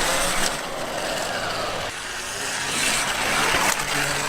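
Motorcycle engine running on the move, its low hum half buried under heavy wind rush on the microphone.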